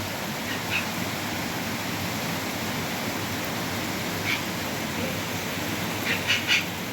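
Steady rushing water, with a few short high chirps: two under a second in, one at about four seconds, and three in quick succession near the end.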